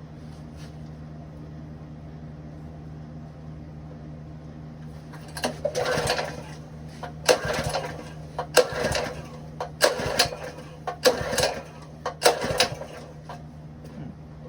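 Ironton 208cc single-cylinder engine pull-started six times in quick succession, about a second and a quarter apart, each pull a short cranking whir that dies away without the engine catching. The engine has spark, and the owner suspects bad gas. A steady low hum runs underneath.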